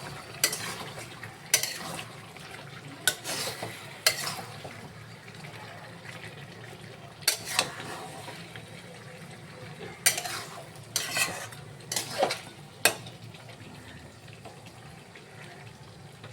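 A cooking utensil scraping and knocking against a pot as chicken curry is stirred, in about a dozen short, irregular strokes with pauses between them, over a faint frying sizzle.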